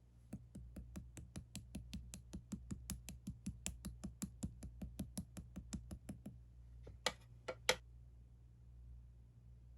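Clear slime being squeezed and poked by hand, making quick, even clicks about six a second for some six seconds, then two louder, longer crackles about seven seconds in.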